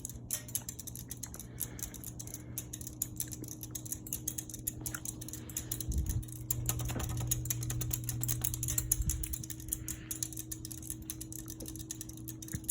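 Seagull Lighting ceiling fan running on medium: a steady motor hum with rapid light clicking throughout, and a louder low rumble for about three seconds from six seconds in. The owner suspects a bad capacitor, which keeps the fan from reaching full speed.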